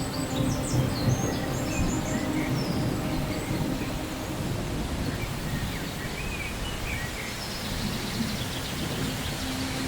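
Steady rain with a low rumble of thunder that fades over the first few seconds. A few short bird chirps sound over the rain.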